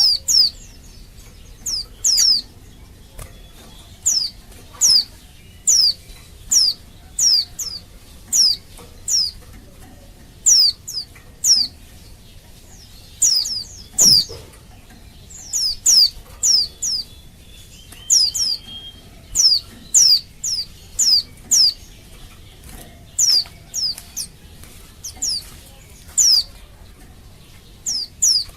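Female white-eye (pleci) calling for a male: short, high calls that fall sharply in pitch, often two or three in quick succession, repeated about once a second with brief gaps. A faint knock about halfway through.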